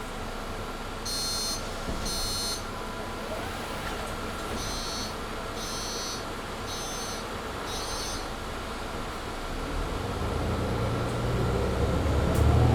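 Inside a Mercedes-Benz Citaro C2 G articulated bus: two short electronic beeps, then four more, over the steady hum of the cabin heating. About ten seconds in, the engine starts to rise as the bus pulls away.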